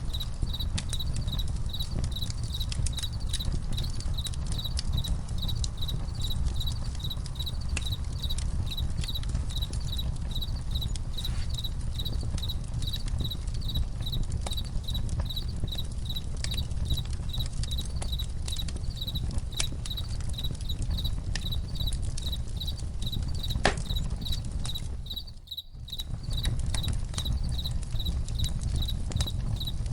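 Campfire crackling, with scattered sharp pops and snaps over a low rumble, while crickets chirp in a steady, even pulse. The whole sound briefly drops away for about a second a few seconds before the end.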